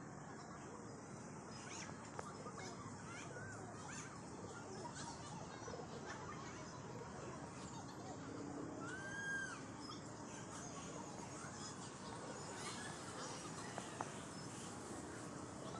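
Birds chirping faintly over a steady outdoor background, with one clearer rising-and-falling call about nine seconds in.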